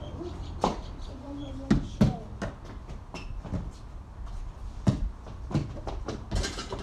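A basketball bouncing and knocking against hard surfaces: a string of irregularly spaced thumps, with no steady dribbling rhythm.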